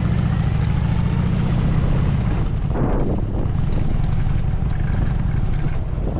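Harley-Davidson Dyna Super Glide's V-twin engine running under way, heard from on the bike; the deep engine note eases a little about two and a half seconds in.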